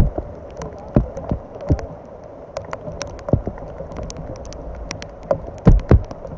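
Rain falling on and around the camera: irregular sharp ticks of drops striking the housing and a few heavier low thumps over a steady rain hiss.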